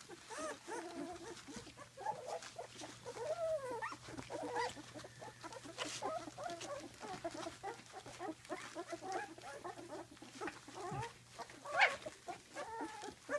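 Young blue Weimaraner puppies, about two and a half weeks old, whining and squeaking in many short, overlapping cries that rise and fall in pitch. Near the end there is one louder, higher cry.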